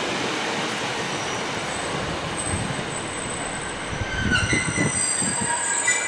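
Class 150 diesel multiple unit pulling away, with a steady rumble and thin high wheel-squeal tones that come in about two seconds in and grow stronger. A few low knocks sound near the end as it runs over the track.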